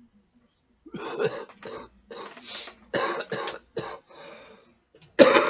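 A person coughing in a string of short coughs, then a louder coughing fit starting near the end: coughing from inhaling cannabis smoke.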